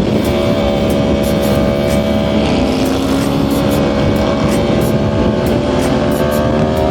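Yamaha R1 sport bike engine at highway speed, its note climbing slowly and steadily as the bike accelerates, over steady wind noise.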